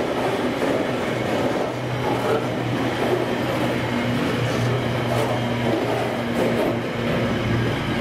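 Freight wagons loaded with waste containers rolling past on the rails: a steady rumble of wheels on track, with a low hum throughout.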